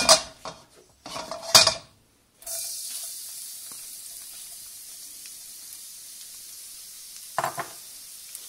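Minced garlic going into hot oil in a pan: two loud knocks of the plate and spoon against the pan, then about two and a half seconds in the oil starts sizzling steadily.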